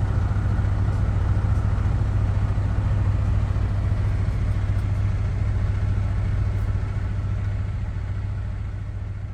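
Heavy truck's diesel engine running steadily, a low, even rumble that eases off slightly near the end.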